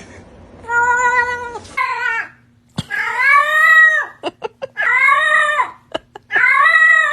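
Domestic cat meowing: five drawn-out meows in a row, the longer ones rising and then falling in pitch.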